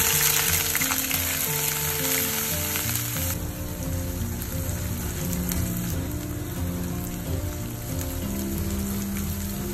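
Blended onion paste hitting hot oil in a non-stick wok: a loud burst of sizzling right at the start that settles after about three seconds into a steady, softer sizzle while it is stirred with a spatula.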